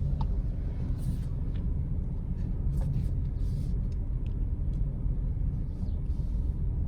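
Car running slowly, heard inside the cabin as a steady low rumble, with a few faint clicks.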